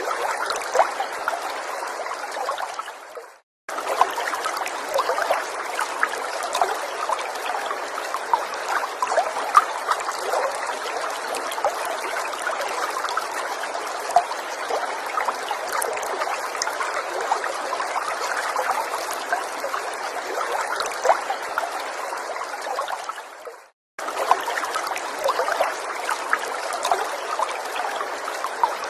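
Small forest stream trickling and babbling over stones, a steady wash of water sprinkled with tiny splashes. Twice, about three seconds in and again near the end, it fades out to a moment of silence and then snaps back.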